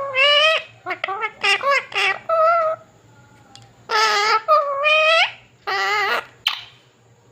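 Pet parrot chattering in a run of high-pitched, speech-like calls whose pitch swoops up and down, in two bursts with a short pause in the middle.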